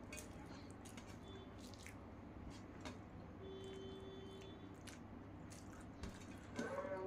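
Close-miked mouth sounds of someone eating rice and fish: soft, wet squishing and chewing with small scattered clicks.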